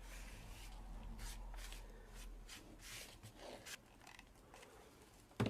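Soft rustling and brushing of hands clearing moss and scraps off a craft desk, a series of light strokes that fades after about four seconds, then one short sharp knock near the end.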